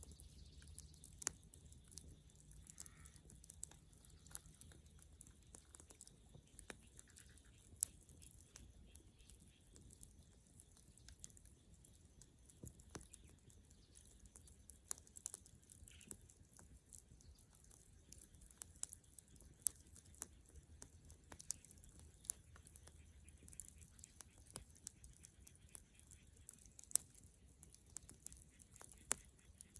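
Bonfire of dead wood crackling: irregular sharp pops and snaps, a few louder than the rest, over a faint low rumble.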